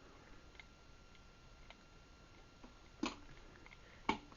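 Faint ticks, then two sharp clicks about a second apart near the end: buttons being pressed on the Craftsman garage door opener's wall control while setting its timer.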